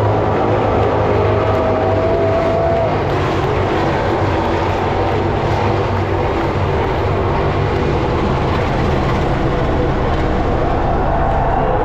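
MotoGP racing motorcycles at high revs, a dense steady din of engines, with one engine note standing out and rising slightly for a second and a half before it fades away.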